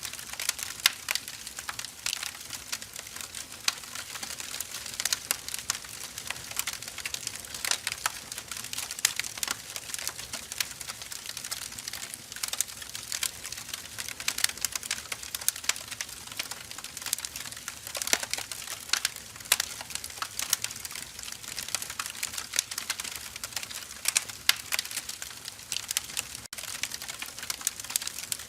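Wood fire burning, crackling with many irregular sharp pops, several a second, over a soft steady hiss.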